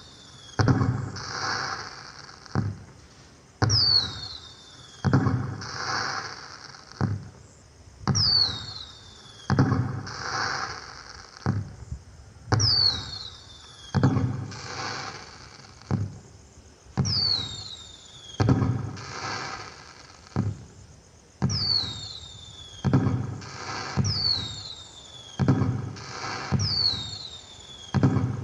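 Firework sound effect played through the speaker of an LED pixel cracker light: high falling whistles, each followed by bangs and crackling, repeating in a loop every few seconds.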